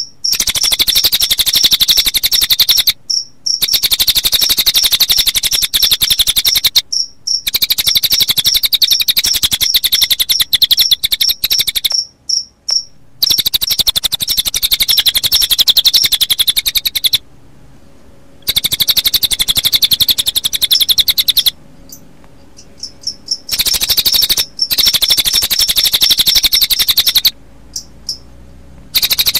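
Recorded cililin bird song mixed with cricket chirping: a loud, continuous run of very fast, high-pitched trilling pulses that cuts out abruptly several times for a second or two before starting again.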